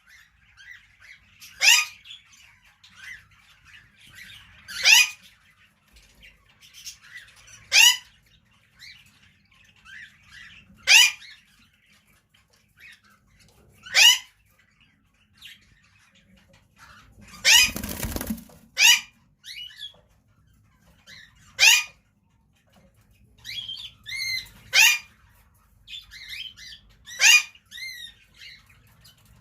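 Lovebirds calling: sharp, shrill screeches about every three seconds, with softer chirping in between. Near the middle comes a brief rustle, like wings flapping.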